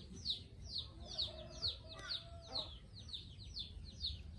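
Birds chirping: a steady run of short, high, falling chirps, about three a second.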